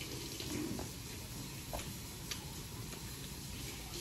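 Faint chewing, with a few soft, short mouth clicks, as meat is eaten by hand.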